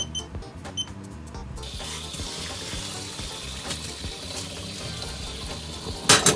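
Kitchen tap water starts running about a second and a half in and keeps flowing steadily, the rinse given to salted shirataki noodles. A few sharp knocks come near the end, and light background music plays under the water.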